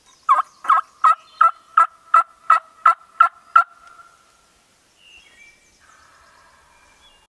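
A series of ten loud turkey yelps, evenly spaced at about three a second, the last note trailing off; faint songbird chirps follow.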